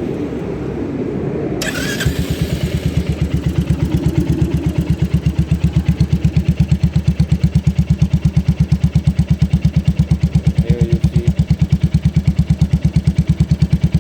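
Royal Enfield Classic 350's single-cylinder engine, fitted with a genuine Royal Enfield accessory exhaust, starting about a second and a half in and settling into idle. It idles as a steady, even thump of about six or seven exhaust pulses a second.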